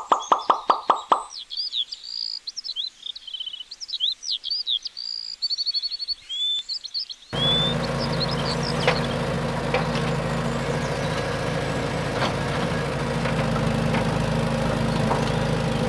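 A quick series of short pitched pulses ends about a second in, then birds chirp and trill for several seconds. About seven seconds in, the sound cuts abruptly to a steady mechanical hum over noise.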